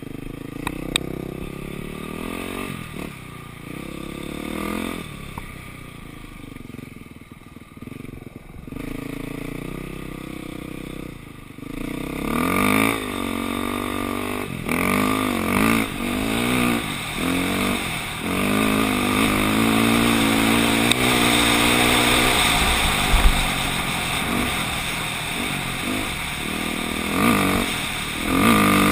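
Dirt bike engine under way, running at low revs and fairly quiet for about the first dozen seconds, then louder, revving up and down in repeated rising and falling sweeps as the bike is ridden hard across sand.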